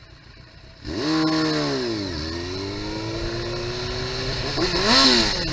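Motorcycle engine accelerating: the revs climb, drop sharply at a gear change about two seconds in, rise steadily again, then fall and swing briefly near the end.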